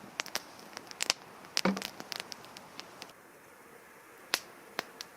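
Campfire crackling with irregular sharp pops and snaps, thinning out after about three seconds to a few scattered pops.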